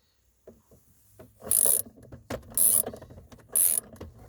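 A flex-head socket ratchet clicking through its return strokes, three short runs of clicks about a second apart after a brief quiet start.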